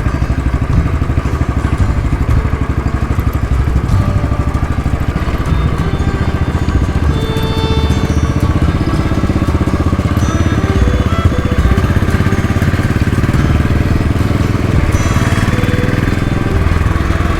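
Motorcycle engine running steadily while riding, in second gear on a gentle downhill.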